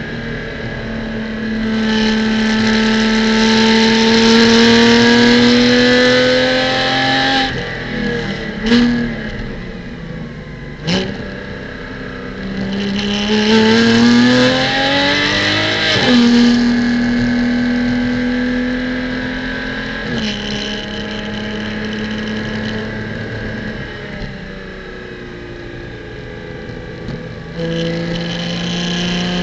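Porsche Cayman GT4 Clubsport's flat-six engine heard onboard at speed. It rises in pitch under full throttle twice, the first time cutting off sharply about seven seconds in and giving short throttle blips soon after, as on downshifts. The rest is steadier, part-throttle running.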